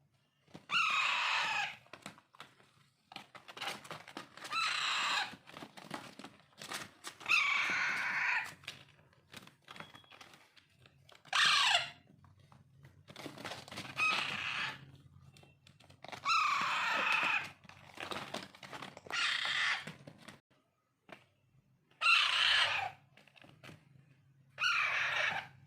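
Alexandrine parakeet chicks giving harsh, rasping squawks, about ten calls each roughly a second long and often falling in pitch, repeated every two to three seconds: the begging calls of chicks being hand-fed.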